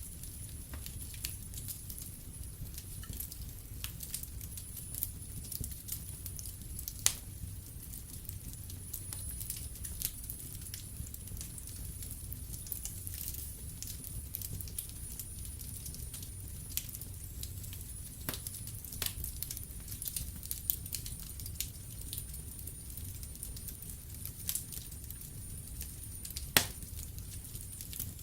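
Wood fire crackling in a fireplace: scattered sharp pops and snaps over a low rumble. The loudest pops come about seven seconds in and near the end.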